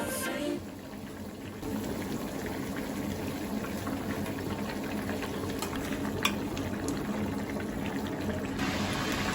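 Food cooking on a stove: a steady bubbling sizzle with a low hum under it and a few light clicks.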